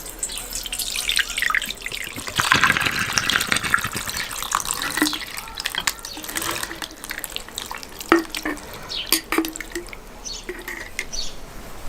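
Water pouring and splashing, loudest about two to five seconds in, followed by scattered clicks and knocks.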